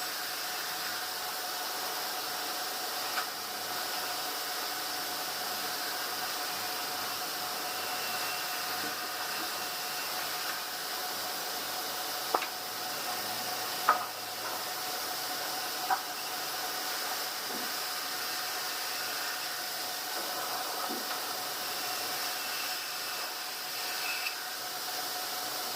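Steady machinery hum and hiss with a faint steady whine, broken by four short sharp knocks, one a few seconds in and three close together around the middle.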